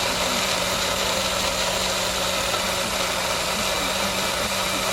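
A motor running steadily: a constant low hum under a loud, even hiss that holds unchanged throughout.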